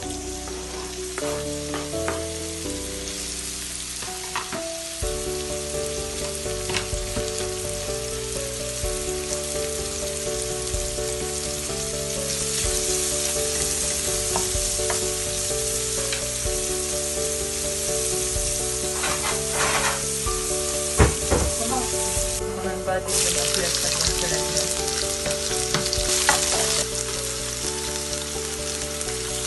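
Chopped onions sizzling in hot oil in a metal pan as they are stirred with a wooden spatula. The sizzle grows louder about halfway through, with a few knocks of the spatula on the pan. Background music plays underneath.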